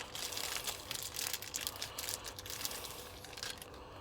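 Packaging being unwrapped by hand: dense crinkling and rustling with small clicks, thinning out near the end.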